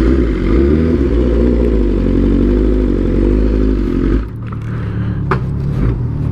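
Motorcycle engine running steadily, then going quiet about four seconds in, followed by a couple of sharp clicks.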